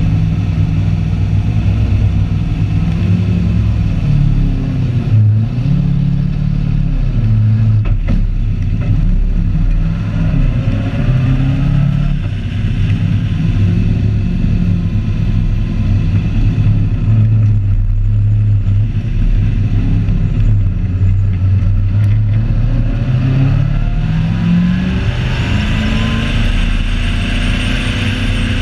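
Drift car's engine running at low revs, the pitch rising and falling as the throttle is blipped while it pulls away and rolls slowly, then revving harder near the end.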